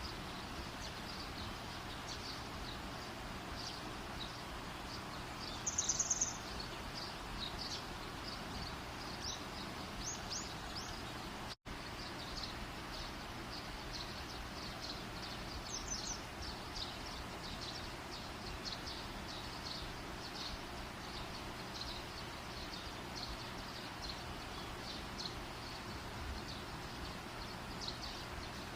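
Wood fire burning with a steady hiss and a scattering of small irregular crackles. About six seconds in there is a short, louder run of rapid high chirps, and the sound drops out completely for an instant just under twelve seconds in.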